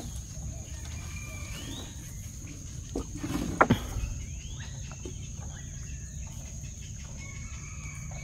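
Birds calling with short rising calls a few times over a steady low rumble, in a mangrove creek. A few sharp knocks three to four seconds in are the loudest sounds, as a wet net is hauled into a wooden canoe.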